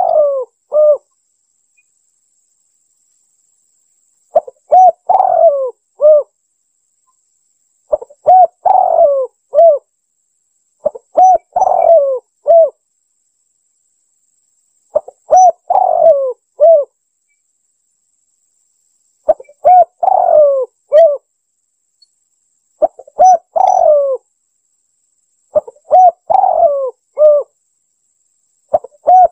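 Spotted dove (tekukur) cooing: one short phrase of several coo notes, repeated about every three to four seconds, about eight times. This is a lure call for trapping the bird.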